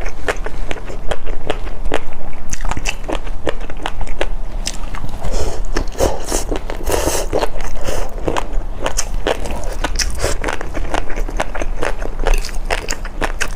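Close-miked eating of a crunchy noodle dessert: a rapid, irregular run of sharp crackling crunches as it is bitten and chewed, densest around the middle.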